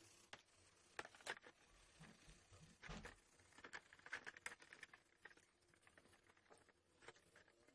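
Faint, scattered light clicks and taps, with a short soft scrape about three seconds in.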